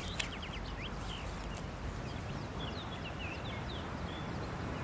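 Birds chirping: scattered short, high, falling calls over a steady outdoor hiss. Two sharp clicks come at the very start.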